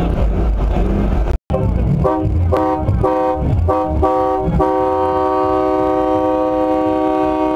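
Truck air horn sounding a string of about six short blasts, then one long held blast. Before it, a low engine rumble that breaks off suddenly.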